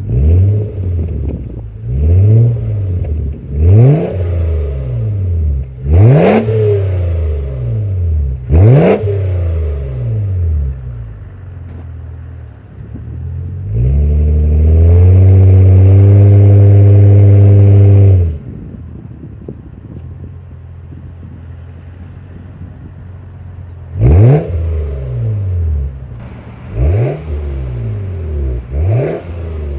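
2005 Lexus ES330's 3.3-litre V6 exhaust through just a Valvetronic universal 2.5-inch muffler, idling between quick blips of the throttle: about five sharp revs up and back down, then a rev held steady at high rpm for about four seconds in the middle, back to idle, and three more quick revs near the end.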